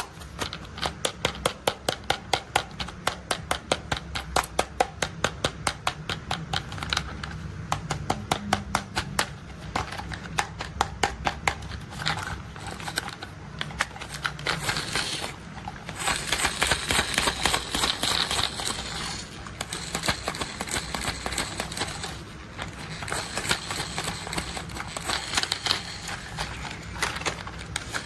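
Plastic toy construction vehicle clicking, a rapid, even series of sharp clicks, several a second. About halfway through the clicks give way for several seconds to rustling and scraping, then resume.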